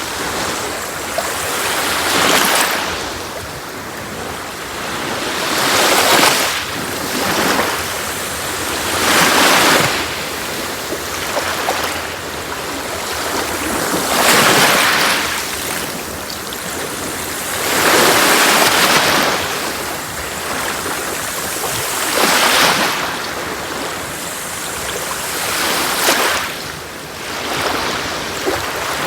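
Sea waves breaking and washing on a beach, a fresh wave surging up every three to four seconds over a steady hiss of surf.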